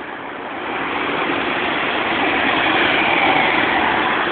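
A bus passing close by: engine and road noise swell over the first second or so, are loudest about three seconds in, then ease off slightly.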